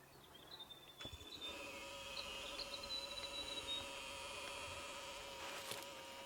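A flying insect buzzing close to the microphone: a steady, slightly wavering whine that starts about a second in and holds its pitch for about five seconds. A few faint clicks sound along with it.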